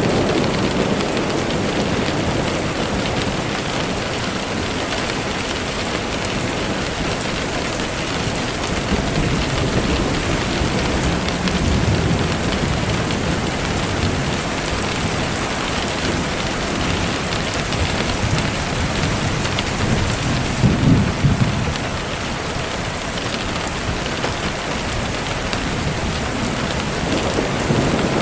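Steady rain falling on surfaces, with low rolls of thunder about twelve seconds in and again about twenty-one seconds in, the second the loudest.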